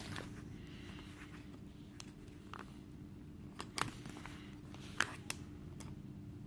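Faint room tone with a steady low hum and a handful of small, sharp clicks and taps from hands handling a washing machine door interlock switch and its test leads.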